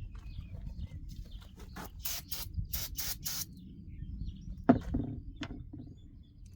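Five short hissing bursts in quick succession, like quick squirts from a spray can, followed by a sharp click and a few lighter knocks as a small part is handled.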